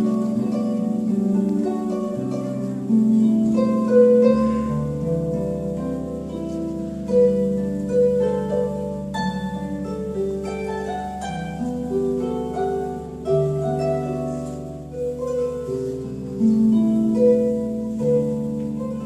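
Acoustic-electric harp playing a melody in plucked notes over long-ringing bass notes, with a deep bass note held underneath from about four seconds in.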